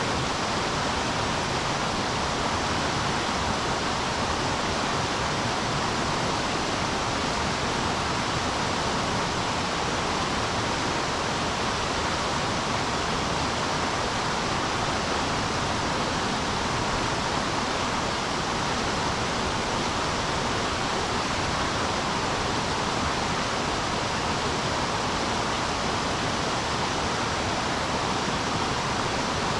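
River current rushing steadily: an even, unchanging hiss of flowing water.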